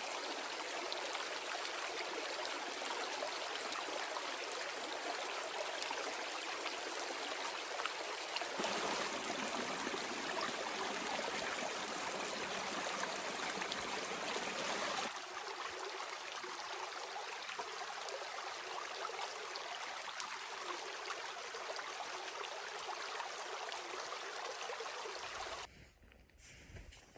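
Steady rush of running water, its character changing abruptly twice, about a third of the way in and just past halfway, then dropping away to much quieter near the end.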